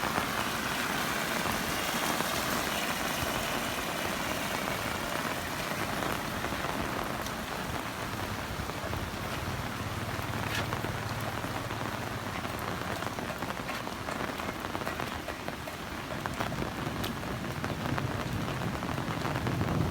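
Heavy rain falling steadily, a dense hiss with scattered sharper drop hits. A low rumble of thunder swells near the end.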